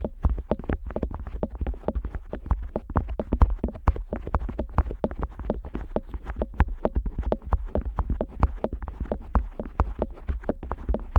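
Otoscope worked against the ear flap of a Neumann KU100 dummy-head microphone, heard very close: a dense, irregular run of sharp taps and clicks, several a second, with rubbing in between.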